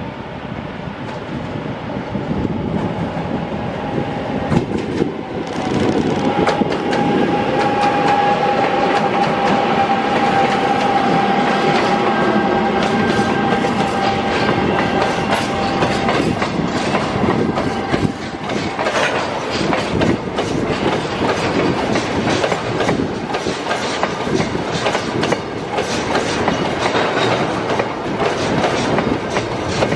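A long freight train of open wagons and tank wagons rolling past close by. It grows louder about five seconds in, with a steady high tone over the first half, then a rhythmic clickety-clack of the wagon wheels over the rail joints.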